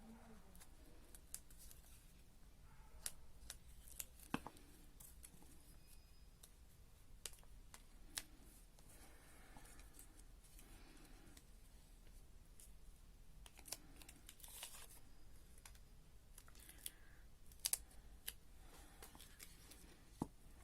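Quiet handling of paper pieces while gluing: faint rustling of paper with scattered small clicks and taps as the pieces are picked up and pressed down.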